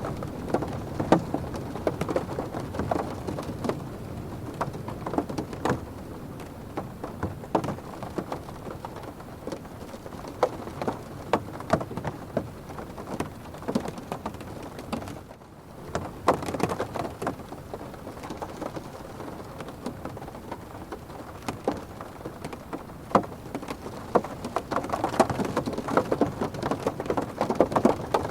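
Rain pattering on a car's roof and windows, heard from inside the cabin: a steady patter with many sharp drop strikes. It swells louder twice, with a brief lull about halfway through.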